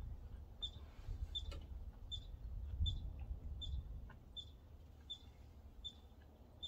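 A bird chirping the same short, high call over and over at an even pace, about four calls every three seconds. For the first four seconds or so, wind rumbles low on the microphone.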